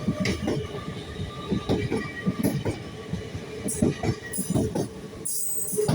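LNER Class 801 Azuma electric train moving through the station, its wheels clicking irregularly over rail joints and points over a steady whine. There is a short high hiss near the end.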